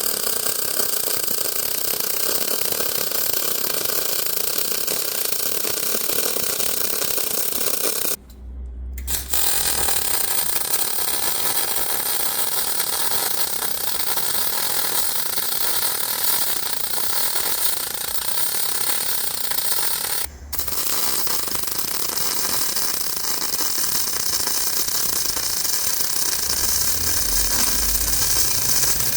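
Arc welding on steel: a steady running weld, stopping briefly twice, about eight seconds in and about twenty seconds in.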